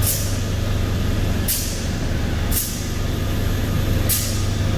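2003 Mazda Tribute's 3.0L DOHC Duratec V6 idling steadily, with short hisses about every second or so. It runs smoothly now that the large vacuum leak at the oil separator gasket is fixed.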